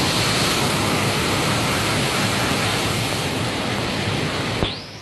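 Torrential rain driven by wind, a loud steady hiss that cuts off abruptly near the end.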